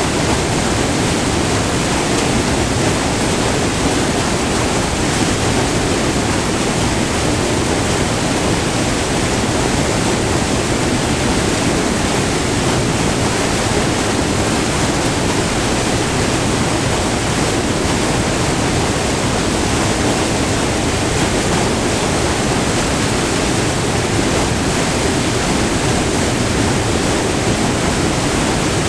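Steady rush of white water tumbling over a short, multi-tiered river waterfall, a loud, even roar with no breaks.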